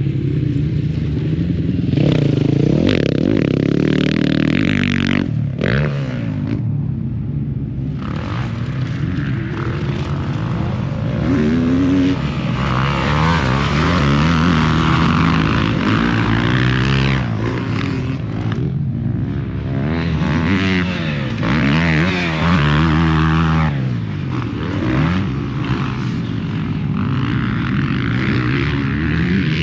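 Motocross dirt bike engines on the track, revving up and dropping back over and over as the riders accelerate, shift and back off, with stretches of louder, harsher running as a bike passes close.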